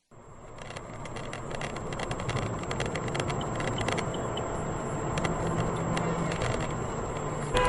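A car's engine and road noise as picked up by a dashcam, steady after building up over the first couple of seconds. A short car horn sounds near the end.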